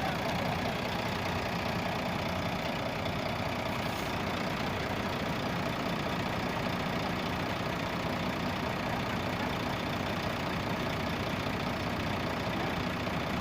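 Heavy truck engine running steadily at idle, with no change in pitch or level.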